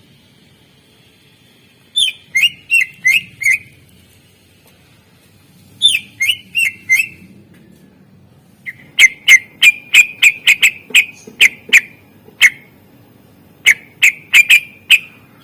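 Cucak ijo (greater green leafbird) singing loud, sharp repeated notes, each dropping quickly in pitch, in short bursts of about five, with a longer rapid run of a dozen or so notes in the middle.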